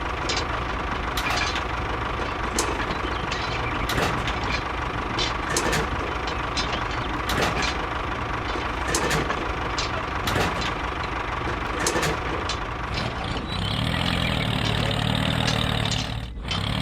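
A small motor runs with a steady whine, with irregular sharp clicks over it. About thirteen seconds in, the sound changes to a lower engine-like drone.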